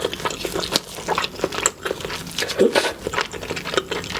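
Close-miked chewing and biting of seafood, a dense, irregular run of short mouth clicks and smacks.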